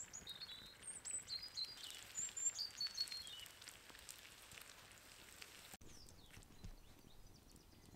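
Velvet crab and potato cake frying in oil in a pan over a campfire, a steady crackling sizzle. Over it, a songbird sings a phrase of short whistled notes falling in pitch, the loudest sound in the first few seconds. The sizzle cuts off suddenly about two-thirds of the way in, leaving quieter outdoor ambience with faint birdsong.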